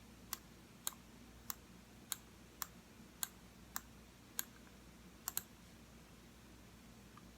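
Computer mouse button clicking, about ten single clicks roughly every half second, ending in a quick double click a little past the middle.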